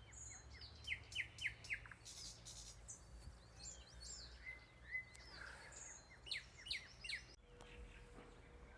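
Small songbirds chirping and singing: runs of quick falling chirps about a second in and again near the end, with whistled notes in between, over a steady low background rumble.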